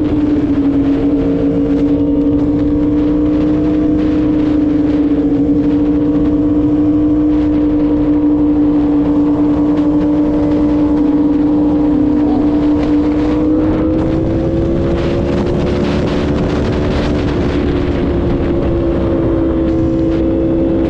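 Yamaha R1M's inline-four engine holding a steady cruising note under way, its pitch rising slightly about two-thirds through and easing back, with wind rushing over the microphone.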